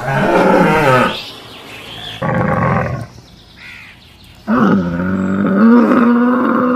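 A cow mooing briefly, then a short second call, then a dromedary camel's long, low groaning call from about four and a half seconds in, rising slightly in pitch near the end.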